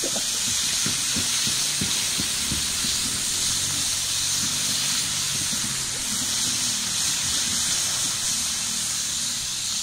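Fish pieces deep-frying in hot oil in a skillet over a wood fire: a steady, loud sizzle with scattered small pops.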